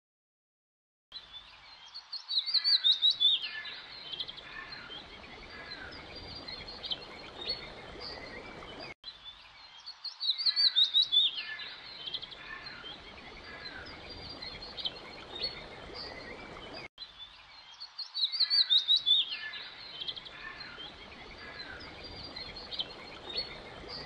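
Birdsong ambience: several birds chirping and trilling over a faint outdoor hiss, starting about a second in. Each pass opens with a loud run of rapid chirps, and the same roughly eight-second recording plays three times over.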